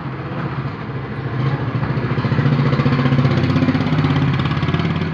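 A motor vehicle engine running with a steady pulsing note, getting louder about a second and a half in.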